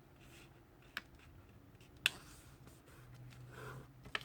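A sheet of paper being folded by hand, an edge brought to the centre crease and pressed flat, with faint rustling and two sharp crinkles about one and two seconds in.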